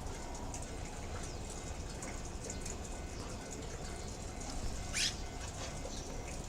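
Swallow nestlings' faint high cheeps over a steady hiss, with one sharp rising squeak about five seconds in.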